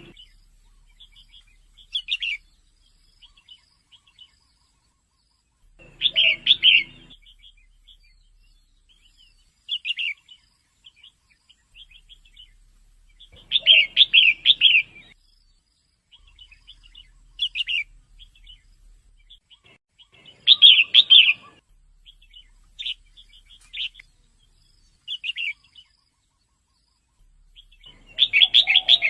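Female red-whiskered bulbul calling: a loud burst of quick chirps about every seven seconds, with softer single chirps in between.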